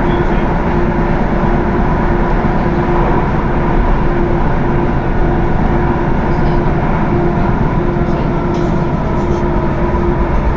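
Thessaloniki Metro train running between stations, heard from inside the carriage: a steady rumble of wheels on rail with a constant hum and whine from the drive.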